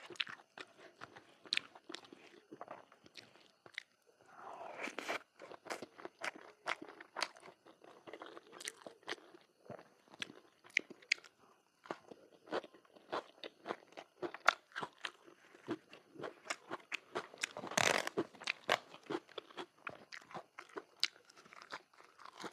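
A person eating close to the microphone: crunching bites and chewing, with many sharp irregular mouth clicks and smacks, and a longer noisy stretch about five seconds in and again near eighteen seconds.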